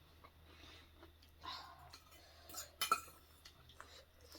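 Cutlery clinking against dishware during a meal, with a cluster of sharp clinks about three seconds in and softer handling sounds before it.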